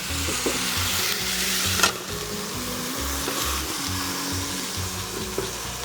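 Chicken sizzling in a frying pan over a campfire as it is left to steam, with a sharp click about two seconds in. Soft background music with a low, even beat plays underneath.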